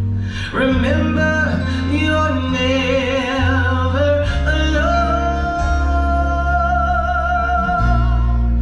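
Gospel song with a singer over instrumental accompaniment and a steady bass; about halfway through the voice holds one long note with vibrato.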